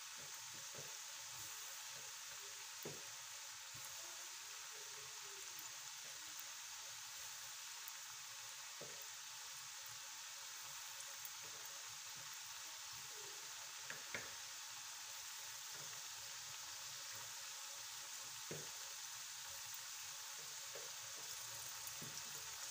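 Potato strips deep-frying in hot oil in a pan: a steady sizzle, with a few faint knocks now and then.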